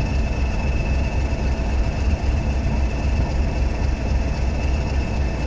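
Class 37 diesel locomotive's English Electric 12-cylinder engine running steadily, heavy and low, with a thin steady high whine over it.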